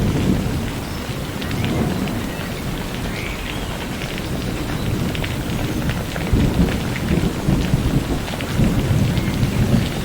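Steady rain falling, with separate drops ticking over the hiss, and a low rumble of thunder that swells from about six seconds in.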